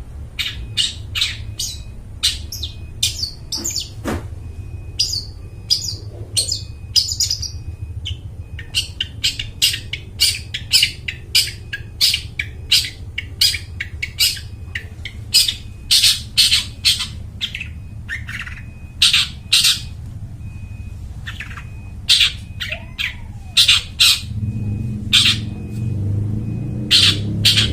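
Long-tailed shrike (cendet) calling hard: quick runs of short, harsh, scratchy high notes with brief pauses between runs.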